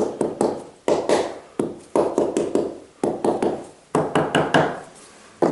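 A trowel working tile adhesive: repeated sharp taps, each followed by a short scrape, coming irregularly about every half second.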